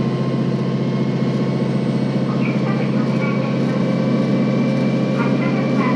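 KiHa 40 series diesel railcar running under power, its engine holding a steady drone over the running noise of the train, heard from inside the car.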